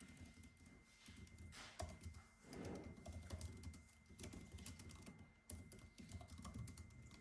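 Faint typing on a computer keyboard: an irregular, quick run of key clicks, with a thin steady high tone underneath.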